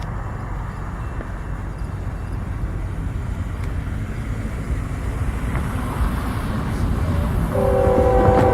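Low, steady rumble of an approaching train, then about seven and a half seconds in the locomotive's horn sounds a chord of several held notes.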